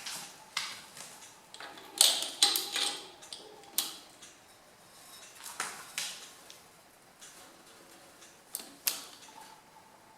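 Scattered metal clicks and clanks of tools and parts being handled, with the sharpest cluster about two seconds in and a couple more near the end.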